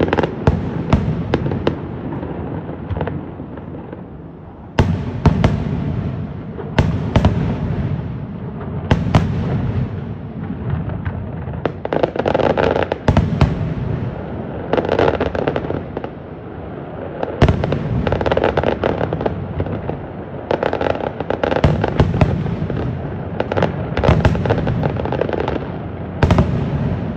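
Aerial fireworks display: shells bursting in quick succession, sharp bangs with rumbling echoes, and denser volleys with crackle in the second half.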